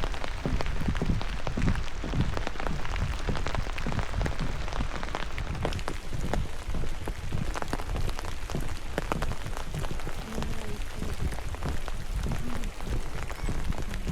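Steady rain falling, with many single drops striking close by as sharp ticks over a constant hiss, and low dull thuds underneath.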